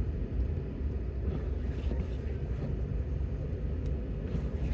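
Pickup truck driving on a snow-covered road: a steady low rumble of engine and tyres, heard from inside the cab.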